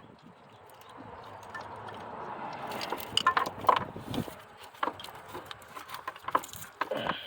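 A rushing noise swells over the first three seconds. A string of sharp clicks and knocks follows as wires and plastic harness connectors are handled in the engine bay.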